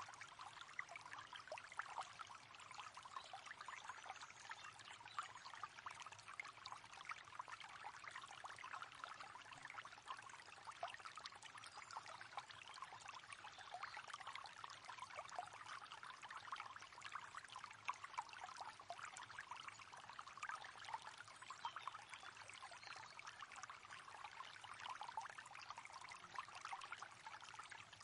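River water flowing: a quiet, steady rush of moving water that stays even throughout.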